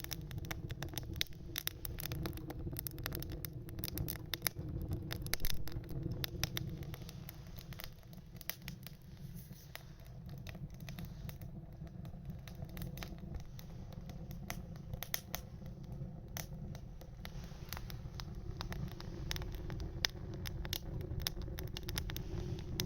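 Wood fire crackling in a small camp stove, with frequent irregular sharp pops and snaps over a steady low rumble.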